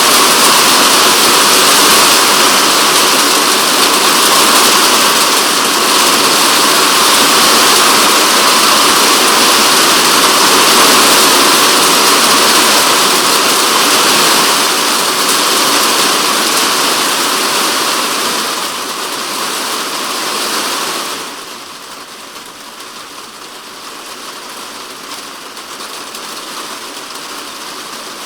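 Heavy typhoon rain falling on a polycarbonate shed roof: a loud, dense, steady hiss. About two-thirds of the way through it eases, then drops off suddenly to much lighter rain.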